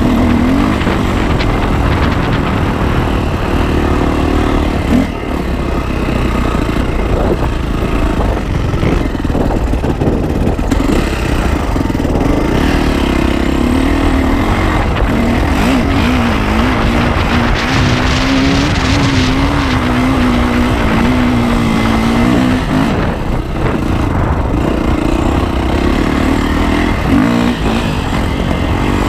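Yamaha YZ450F single-cylinder four-stroke dirt bike engine running under way on a trail ride, its pitch rising and falling as the throttle opens and closes, over a constant rush of noise.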